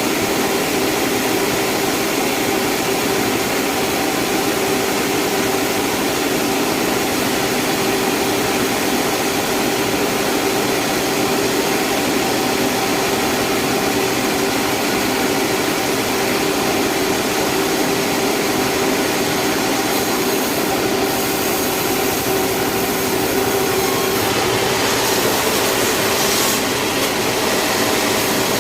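Sawmill saw machinery running steadily: a loud, continuous mechanical hum with a held tone over a hiss, with small shifts in the hiss in the second half.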